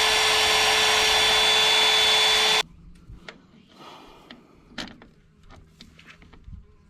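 Power drill running steadily with a whine, stopping abruptly about two and a half seconds in, then faint clicks and knocks of tools and metal parts being handled.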